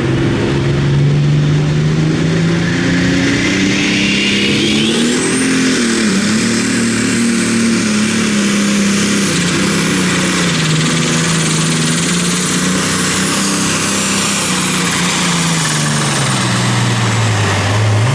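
Pulling tractor's engine running hard through a pass down the track. The engine note climbs over the first several seconds, holds high, and drops off near the end as the run winds down.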